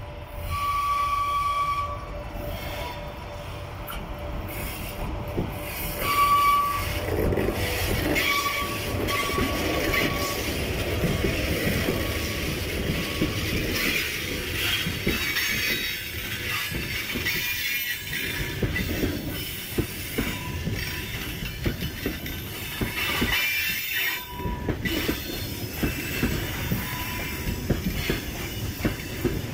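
2ES4K electric locomotive sounding its horn as it approaches, one blast of about two seconds at the start and shorter ones around six to ten seconds in. It then passes with a freight train, and the wagons rumble and clatter by on the rails.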